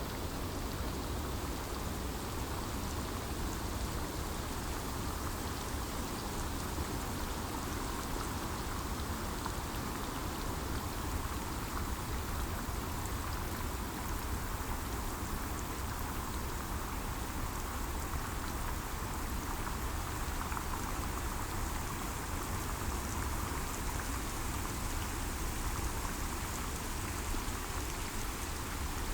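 Steady rain falling on forest foliage, a continuous even patter of drops with no let-up.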